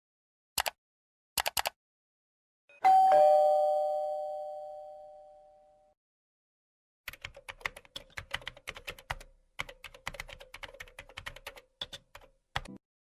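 A couple of short clicks, then a two-note doorbell chime, a higher note followed by a lower one, fading out over about three seconds. Then computer keyboard typing, rapid key clicks for about five seconds.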